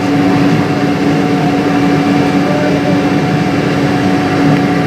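Steady drone inside a Boeing 777-200's cabin, a constant hum with a fixed tone under even noise.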